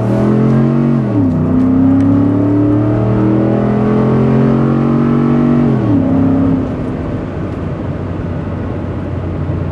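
2011 Ford F-150's 5.0 L V8 with a Magnaflow single-in dual-out muffler, accelerating hard at full throttle. The revs climb and drop at an upshift about a second in, climb again for about five seconds, and drop at a second upshift around six seconds in. After that the engine runs steadier and quieter.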